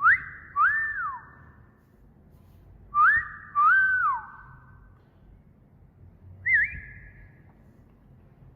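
Wolf whistle: a quick rising note followed by a second note that rises, holds and drops. It is given twice, about three seconds apart, each trailing off in an echo, then a shorter wavering whistle about six and a half seconds in.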